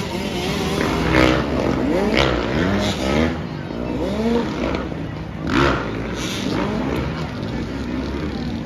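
Motocross dirt-bike engines revving hard, their pitch climbing in a series of rising sweeps.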